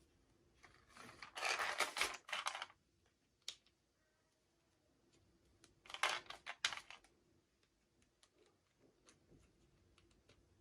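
Packaging being handled for an unboxing: two short bursts of crinkling and tearing, one about a second in and one around six seconds, with scattered light clicks and taps between them.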